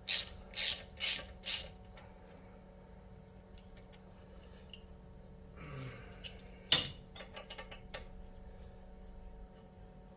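A 3/8-inch ratchet with a T30 Torx socket clicking through four quick strokes about half a second apart as it backs out the screw holding the brake disc. A few seconds later there is one sharp metallic click, the loudest sound, followed by a few light ticks.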